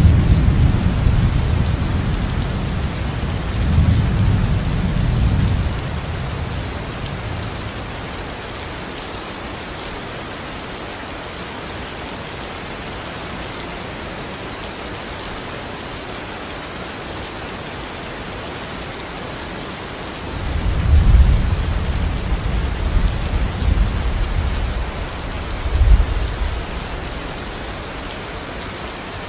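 Steady rain falling, with deep rolls of thunder: one rumbling at the start and dying away after about six seconds, another building about twenty seconds in and rolling on for several seconds.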